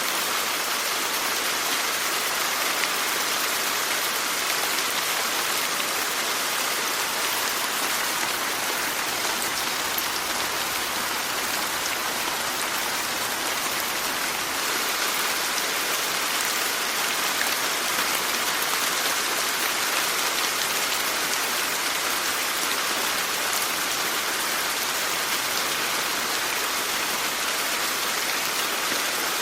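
Steady rain falling, an even hiss of drops with faint scattered ticks of individual drops and no change in strength.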